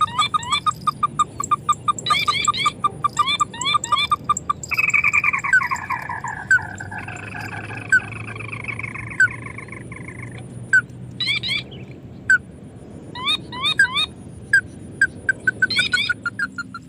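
Crake (burung tikusan) calling: rapid runs of short rising notes, about five a second, with a longer falling, stepped call in the middle and a few spaced notes before the rapid runs return near the end.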